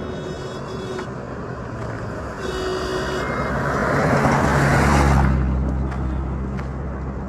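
Road traffic: a motor vehicle passes close by, its rushing noise building to a peak about five seconds in and then falling away, leaving a steady low engine drone.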